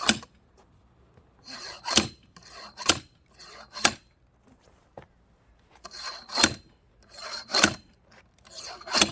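An axe striking a round of firewood about seven times, in sharp, uneven blows, each led in by a short swishing noise. The log is not splitting easily.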